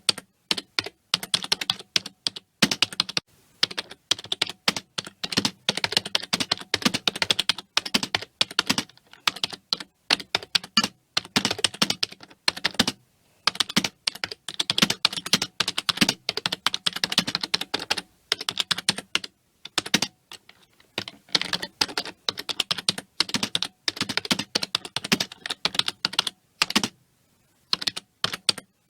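Continuous fast typing on a computer keyboard: rapid key clicks in runs, with brief pauses a few times.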